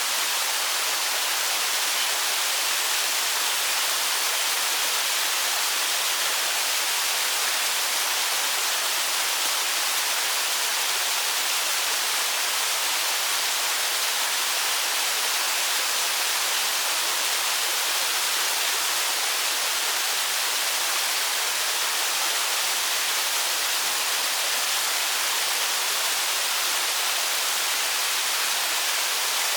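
Steady rushing of a mountain stream flowing over rocks, an even hiss that doesn't change.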